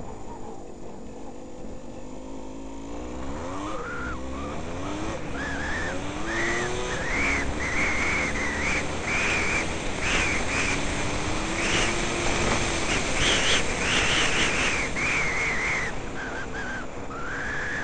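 Yamaha DT200R single-cylinder two-stroke dirt bike engine accelerating hard through the gears. Its pitch climbs and drops again and again as it shifts up, over wind noise on the helmet camera, and it eases off near the end.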